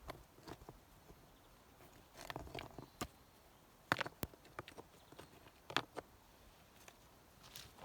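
Scattered sharp knocks and taps at irregular intervals, one or two seconds apart, with a short cluster of quicker taps a couple of seconds in.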